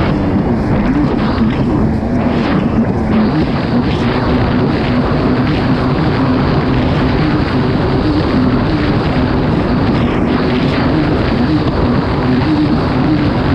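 Kawasaki STX 160 jet ski's four-stroke engine running hard under way, its pitch wavering slightly, over a constant loud rush of noise.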